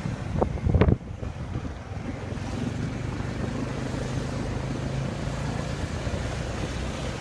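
Wind rushing over the microphone on a moving motorbike, with the bike's small engine humming low beneath it. A brief loud buffet comes just under a second in.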